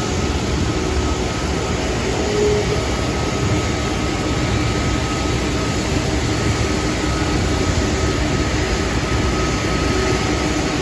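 Jet airliner engines running steadily: a constant loud rush with a faint steady whine over it.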